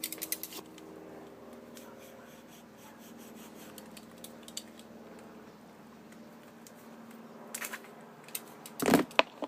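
Packaging being handled: a few sharp clicks and crinkles at the start, then a long stretch of faint steady hum, and a cluster of loud crackles near the end.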